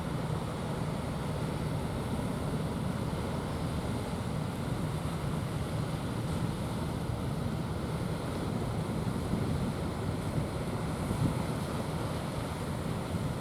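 Steady rumble of wind on the microphone mixed with ocean surf washing on the shore.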